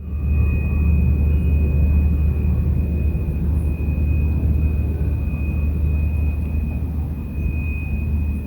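Steady low engine rumble with a constant high-pitched whine above it, as from a running vehicle.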